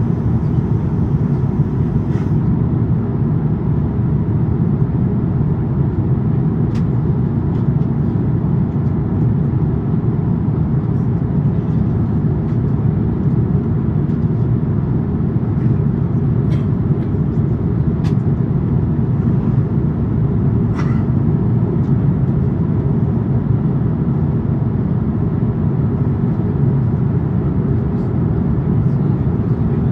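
Airliner cabin noise inside an Airbus A350-900 in flight: a steady, loud low rumble of the Rolls-Royce Trent XWB engines and rushing air, with a few faint clicks from the cabin.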